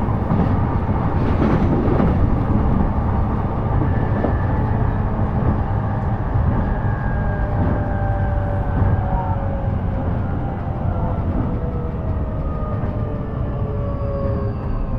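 Running noise inside an E233 series electric train: a steady low rumble of wheels on rail. Over it, the traction motor tones glide slowly down in pitch as the train slows for the next station.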